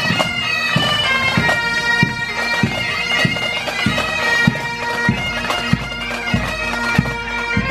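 Parade pipe band playing: bagpipes sounding a melody over their steady drone, with a drum beat of about two strokes a second.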